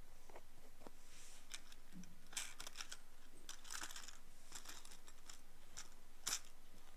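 Ear pick scraping inside the ear canal, heard close up: irregular clusters of crackly scratches and clicks, the sharpest crackle about six seconds in.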